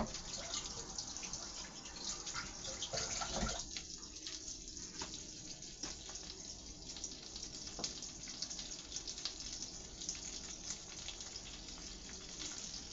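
Chicken nuggets sizzling in a pan of melted butter and hot sauce: a steady crackling hiss, with a single knock about three and a half seconds in.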